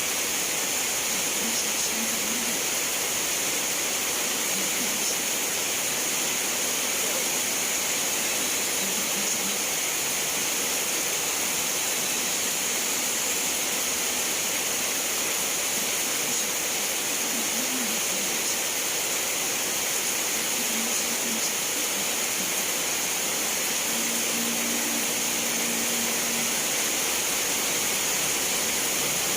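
Steady rain falling, an even hiss that does not change, with a few faint short low tones now and then.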